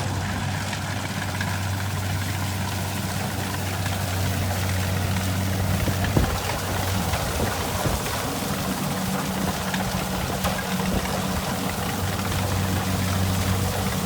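Kubota rice combine harvester's diesel engine running steadily with an even low hum, with a single sharp knock about six seconds in.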